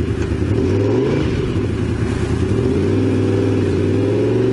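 Honda VFR750's V4 engine running under way, the motorcycle's note rising, dropping about a second in, then climbing slowly again from about three seconds in.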